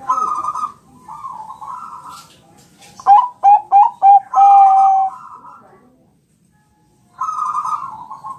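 Zebra dove (Thai-bred perkutut bangkok) cooing. Rolling, trilled coos are followed by the loudest part, a quick run of short staccato notes ending in one longer held note. After a pause of under two seconds, another trilled coo comes near the end.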